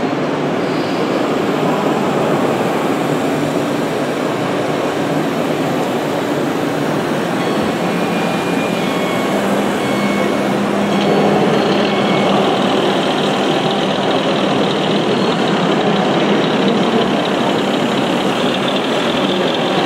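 Scale RC construction trucks and machines running, a steady engine-like sound that gets a little louder about halfway through.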